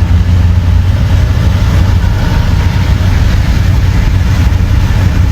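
Steady, loud, low rumble of a vehicle's engine and road noise, heard from inside the vehicle while driving.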